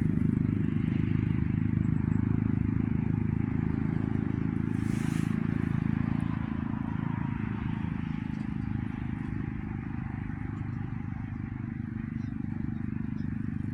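Steady low road rumble of a moving car heard from inside the cabin, easing off slightly partway through.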